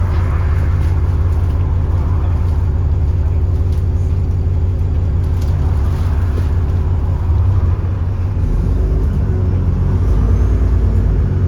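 Diesel engine of an Alexander Dennis Enviro400 double-decker bus running steadily under way, a deep drone; about eight seconds in the engine note changes, and a faint rising whistle comes in near the end.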